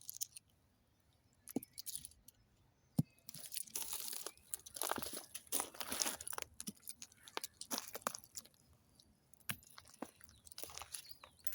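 Irregular crunching and rustling, with a few sharp clicks in the first seconds and the densest crackling from about three to seven seconds in.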